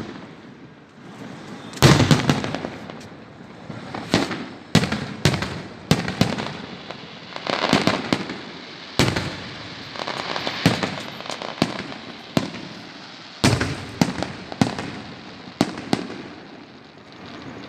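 Fireworks going off: a long run of sharp bangs at irregular intervals, about one a second, with a crackling hiss between some of them.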